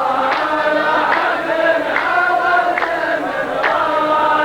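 A group of men chanting a line of a Saudi mawwal poem in unison, holding long drawn-out notes. Sharp beats keep an even rhythm, about one every 0.8 seconds.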